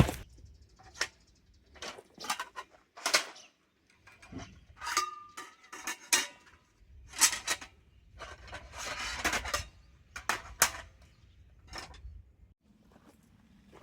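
Camping gear being handled and set down: scattered knocks, clinks and rustles, with a brief metallic ring about five seconds in.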